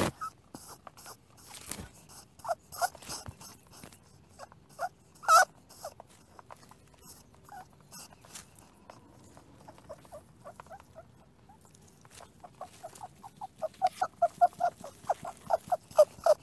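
Domestic rabbit grooming itself on dirt, making scattered small scratching and clicking sounds. A quick run of ticks at about five a second comes near the end.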